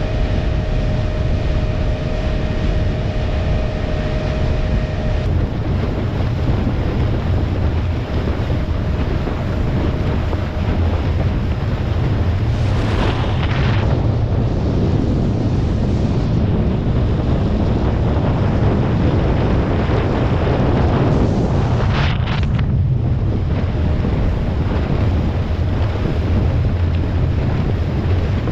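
A boat running under way, with strong wind buffeting the microphone and water rushing past. A steady motor tone shows for the first few seconds, and there are brief whooshes about halfway through and again about two-thirds of the way in.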